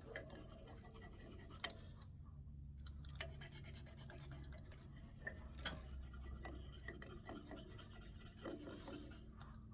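Faint rubbing and scratching as soft wax is scrubbed by hand into a turned walnut wand, with a few light clicks.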